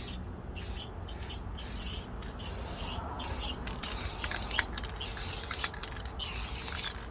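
Aerosol can of matte clear sealer spraying in hissing passes, thickest from about three seconds in, with a few light clicks of handling. A steady, rhythmic high chirping pulses a few times a second behind it.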